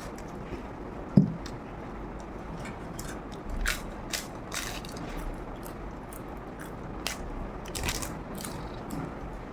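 Close-up eating sounds: a person biting and chewing food, heard as scattered crunchy clicks, with one sharp low thump about a second in.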